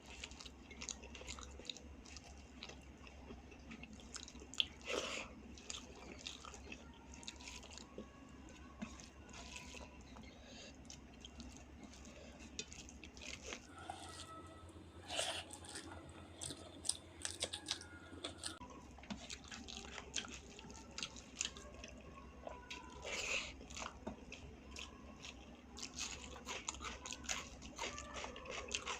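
A person chewing a vegetarian Indian meal of rice, dal and vegetable curries close to the microphone, with irregular small crunches and clicks.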